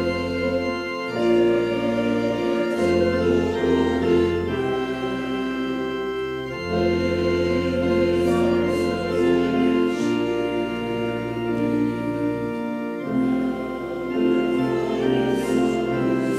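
Organ playing slow, held chords over a deep sustained bass note, the chord changing every two to three seconds.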